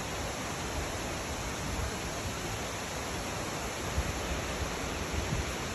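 Creek water rushing steadily over rocks, a constant even rush. A few low bumps sound on the microphone about four seconds in and near the end.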